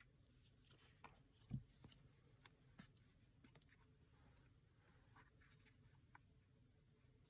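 Faint paper handling at a craft desk: light rustles and small clicks, with one soft thump about one and a half seconds in.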